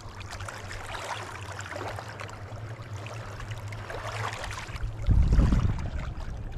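Wind buffeting the microphone in a steady low rumble, with a stronger gust about five seconds in.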